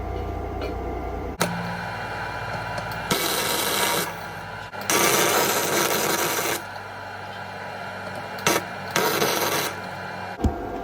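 Flux-core wire welder tack welding steel box section: four short bursts of arc crackle, the longest about two seconds. A low hum stops with a click about a second and a half in.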